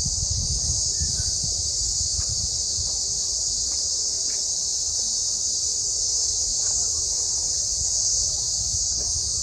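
Cicadas singing in a steady, high-pitched chorus over a low, fluctuating rumble.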